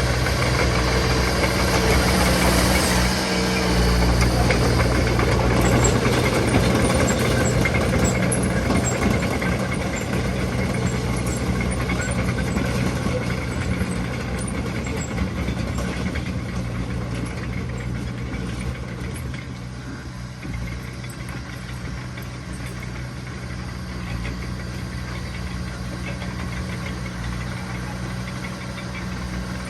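Heavy diesel engine of earthmoving machinery running steadily. It is louder over the first several seconds, then gradually quieter.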